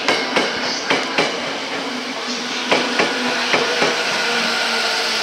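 Tokyo Metro Tozai Line 05 series electric train rolling past, its wheels clacking in pairs over the rail joints, with a steady low hum underneath.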